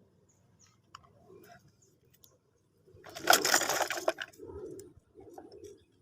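Small clicks and knocks of hard objects being handled, with a loud clattering burst about three seconds in that lasts about a second.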